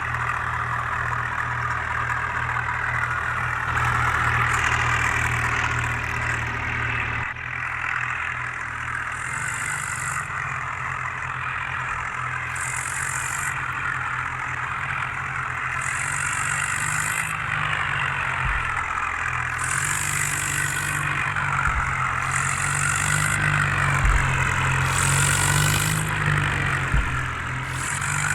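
Tractor diesel engine running steadily at low speed, its low hum shifting in pitch about seven seconds in.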